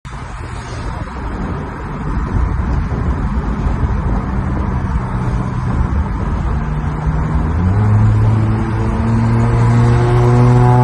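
Toyota Celica GTS's 1.8-litre four-cylinder engine and exhaust running hard under way, growing gradually louder over a rumble of road and wind noise. About eight seconds in the engine note jumps up in pitch and settles into a loud steady drone.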